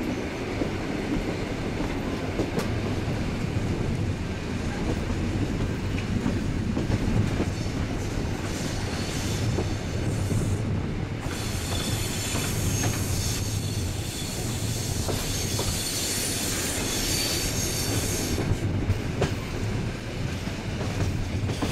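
Passenger train running on the rails, heard from an open carriage window: a steady rumble of wheels with clickety-clack over rail joints. About halfway through, a high wheel squeal sets in, typical of wheels on a curve, and holds for several seconds before dropping away.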